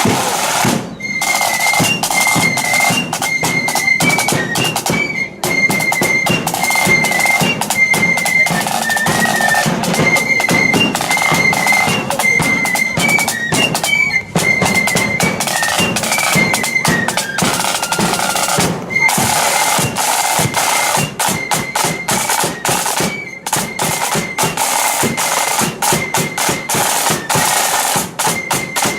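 Blood-and-thunder flute band playing on the march: massed flutes carry a high melody over rapid snare-drum rolls and heavy drum beats.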